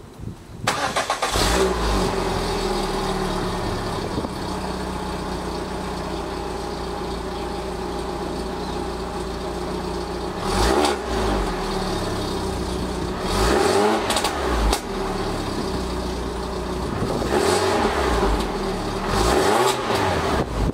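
Citroen C2 VTS 1.6 16-valve four-cylinder petrol engine, breathing through a Milltek 4-1 decat race manifold with the standard exhaust behind it, starting about a second in and settling to a steady idle. In the second half it is blipped lightly about four times, each rev rising and falling back to idle, kept gentle because the engine is cold.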